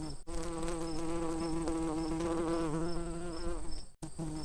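Honey bee buzzing close to the microphone: a steady droning hum that wavers slightly in pitch. It cuts out abruptly about four seconds in, returns for a moment, then stops.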